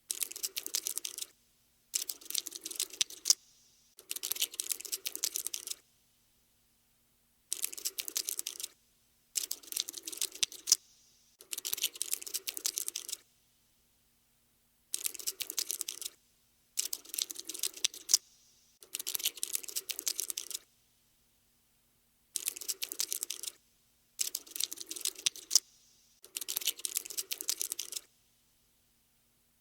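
Scuttling sound effect for a running cockroach: bursts of rapid, dry clicking like tiny legs skittering, each lasting one to two seconds. There are about a dozen bursts, separated by short silences.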